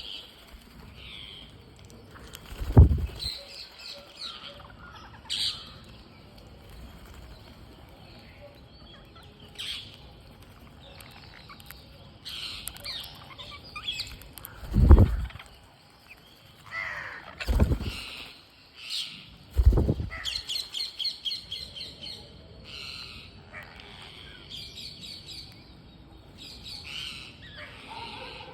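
Green parrots giving short, high chirps and squawks, with a fast chattering run of calls about two-thirds of the way through. Several loud low thumps break in.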